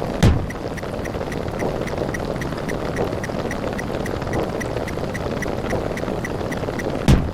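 A steady, dense wash of rapidly repeating, overlapping sound effects, with faint short ticks about four or five a second. A heavy low thud comes just after the start and another near the end.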